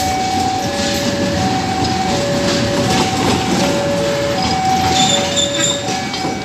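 Railway level-crossing warning alarm sounding, two electronic tones alternating high and low, over the rumble of a train moving on the tracks. A brief high-pitched squeal comes about five seconds in.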